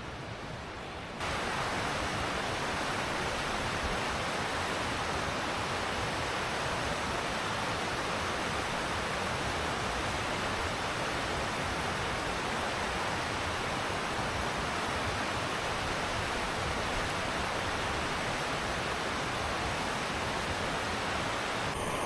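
Steady rushing of fast-flowing mountain river water, an even noise that jumps louder about a second in and then holds.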